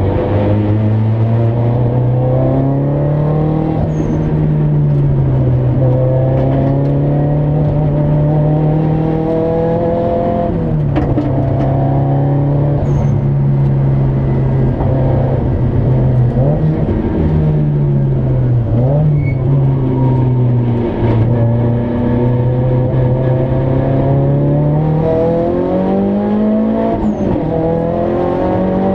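Engine of a Nissan Silvia S15 race car heard from inside the cabin, pulling hard on track. The revs climb and fall several times, with sudden brief dips at the gear changes and a steady climb near the end.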